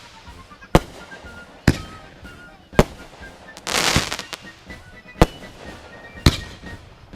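Fireworks going off: about five sharp single bangs spaced a second or so apart, with one longer crackling burst in the middle.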